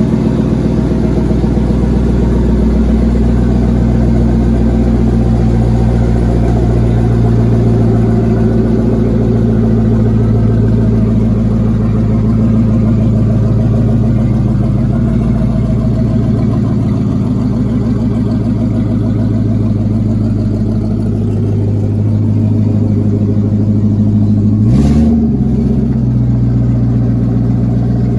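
An engine idling steadily, with one short blip of the throttle near the end.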